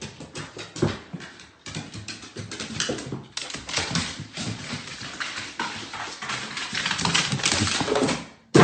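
A dog, with many quick, irregular clicks and taps and short sounds from the animal throughout.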